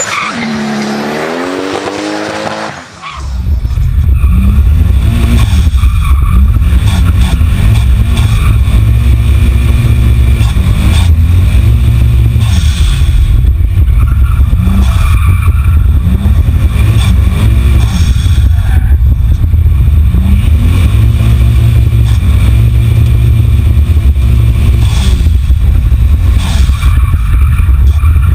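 Toyota 2JZ straight-six in a drifting Nissan 200SX, revving up and down over and over, with a heavy low rumble throughout. For the first three seconds it is heard with a tyre screech, the engine pitch dipping and then climbing. After that the engine is heard from close to the engine bay.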